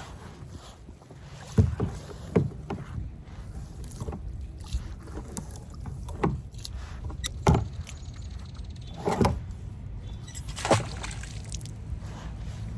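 A kayak being paddled: about six irregular knocks and splashes from the paddle against the hull and the water, over a steady low rumble.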